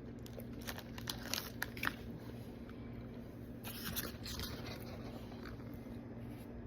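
Someone eating a soft chocolate-and-peanut candy: faint chewing with small clicks and a brief wrapper rustle about four seconds in.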